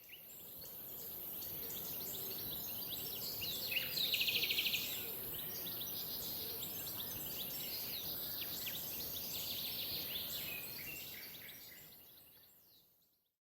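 Outdoor birdsong: many small birds chirping and calling over a steady high hiss, with one fast rattling trill about four seconds in. It fades in at the start and fades out near the end.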